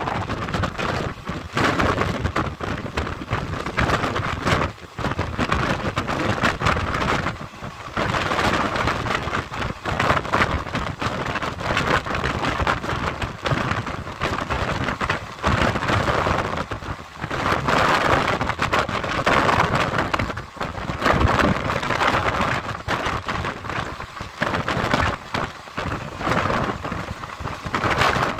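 Running noise of a moving train heard from on board: a dense rush of wheel-on-rail and wind noise that swells and dips, with irregular knocks and clatter throughout.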